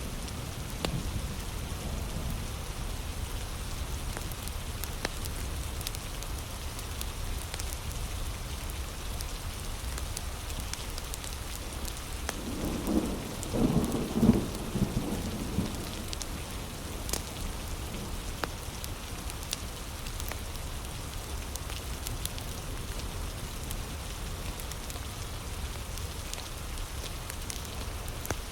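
Heavy rain falling steadily, with a brief low rumble of thunder lasting a few seconds about halfway through.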